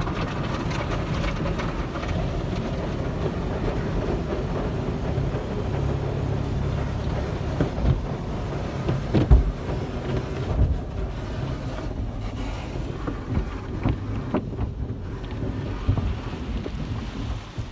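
Automatic tunnel car wash working on a car: a steady rush of spraying water and machinery, with a few heavy thumps about nine seconds in.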